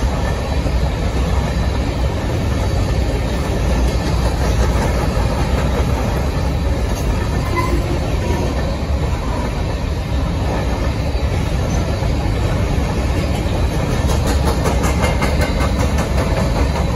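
Freight train of covered hopper cars rolling steadily past, its steel wheels making a continuous rumble on the rails. A run of faint quick clicks comes in near the end.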